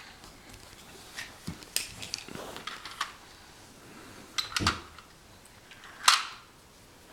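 Plastic Duplo train-set pieces being handled: a scattered run of short clicks and knocks, a couple with a dull thud, and the loudest knock about six seconds in.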